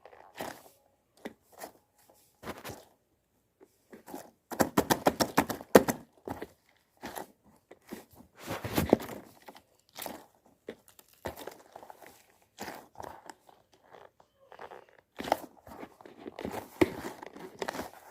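Slippery slime being worked by hand, giving irregular clicks and pops. There is a dense run of rapid clicks a few seconds in and further bursts later.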